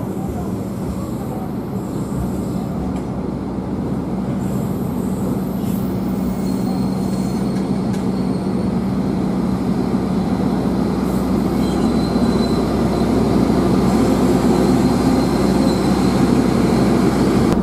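Stainless-steel passenger train rolling slowly along the platform: a steady rumble of wheels on rails with a constant low hum, growing gradually louder as the generator car comes alongside. A faint high squeal from the wheels shows midway.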